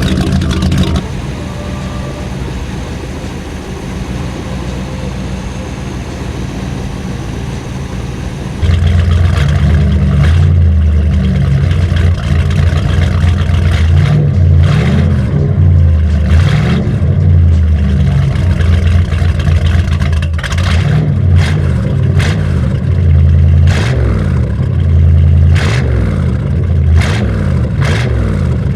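MerCruiser 350 small-block 5.7 L V8 marine engine running: steady and quieter at first, then about eight seconds in it gets much louder and is revved up and down several times, its pitch rising and falling with each blip of the throttle.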